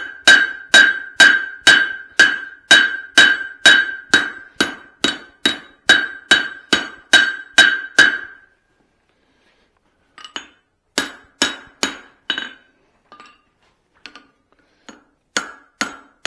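Blacksmith's hammer blows forging a hot steel hammer head on the anvil, about two strikes a second, each with a high metallic ring. The blows stop about eight seconds in, then resume after a short pause as fewer, lighter, irregular taps.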